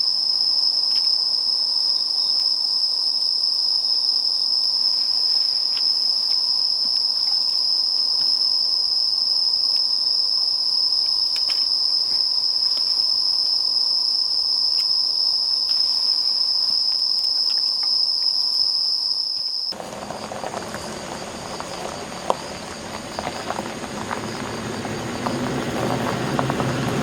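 Insects singing in a steady, high-pitched chorus. About twenty seconds in it cuts off abruptly and gives way to a broad rushing noise that grows louder toward the end.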